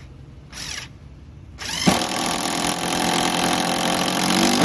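Makita TD0101F corded impact driver: a brief spin of the motor just under a second in, then from about two seconds in it runs steadily, driving a screw.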